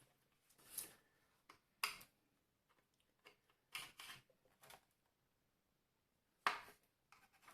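A few faint, scattered clicks and scrapes, the loudest about six and a half seconds in: the plastic housing of a Tefal steam iron being handled and pried apart during disassembly.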